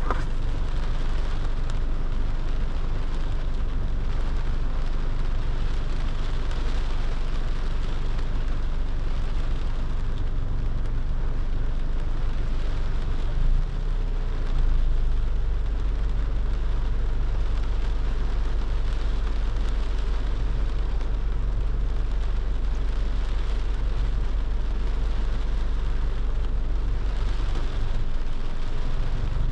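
Car driving in the rain: a steady low road rumble under the hiss of rain. About halfway through, the rumble drops briefly and comes back stronger.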